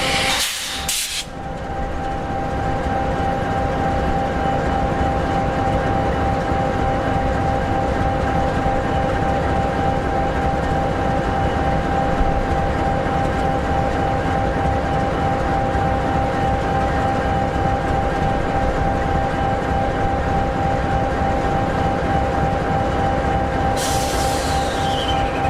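EMD 16-710G3B sixteen-cylinder two-stroke diesel of an SD60E locomotive idling steadily: an even low rumble with several constant tones over it. A short burst of hiss and a brief dip in level come about a second in.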